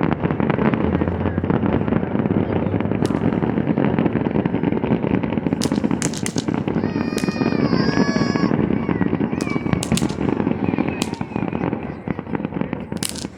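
Fireworks display: a continuous rumble of bursting shells, broken by sharp crackling reports every few seconds.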